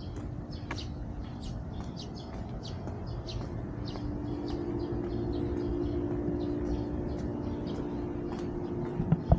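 Birds chirping in short repeated calls over the low rolling rumble of inline skate wheels on paving. A steady hum grows louder through the middle as the skater rolls past a row of vending machines.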